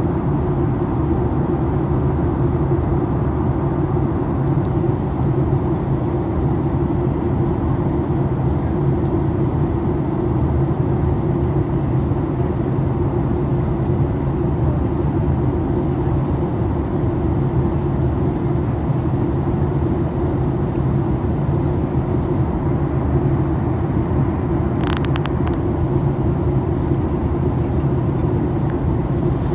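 Steady cabin drone of a Boeing 737 MAX 8 airliner in flight: rushing airflow over the fuselage with a constant low hum from its CFM LEAP-1B engines. A brief small click about 25 seconds in.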